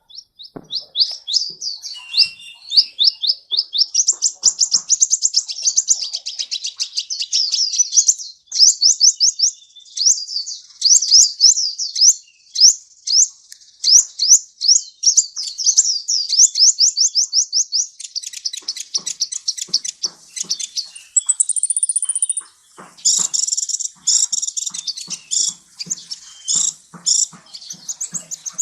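Sunbird (Indonesian 'kolibri') singing a long, fast, high-pitched song of rapid sweeping notes and trills, in phrases broken by brief pauses, with a single held high note about two-thirds of the way through.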